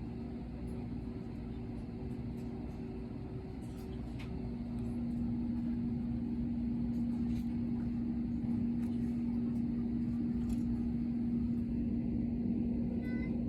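Airliner engine noise heard inside the cabin: a steady low rumble with a steady hum, growing louder about five seconds in.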